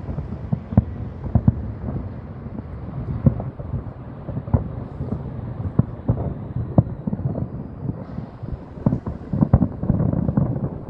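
Fireworks going off: a rapid, irregular series of booms and bangs, several a second at times, over a low rumble.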